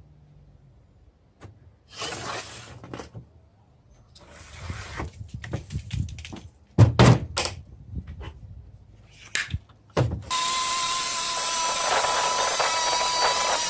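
Wooden door and jamb being handled, with scattered knocks and one loud thunk about halfway through. Near the end a power tool starts and runs steadily and loudly.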